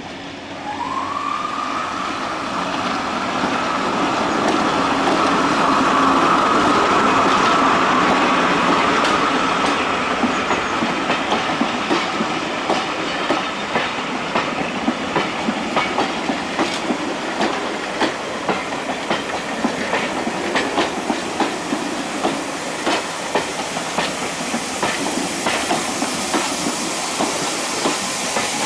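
A passenger train running past a platform: a high whine rises about a second in and holds steady for several seconds as the BR Class 73 electro-diesel at the front goes by, then the coach wheels give a long run of clickety-clack over the rail joints. A hiss of steam from the Battle of Britain class steam locomotive at the rear starts to come in near the end.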